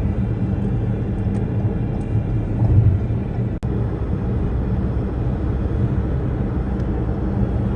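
Car cabin noise while driving: a steady low rumble of engine and road, with a brief dropout about halfway through.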